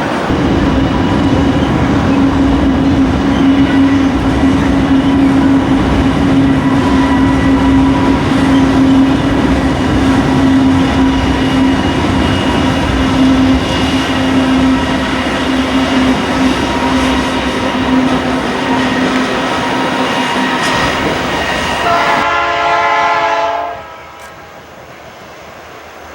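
Freight train running with Dash-9 and SD40 diesel-electric locomotives, a dense rumble of engines and wheels on rail with a steady tone held for most of the stretch. Near the end a short chord-like horn blast sounds, then the noise drops off sharply.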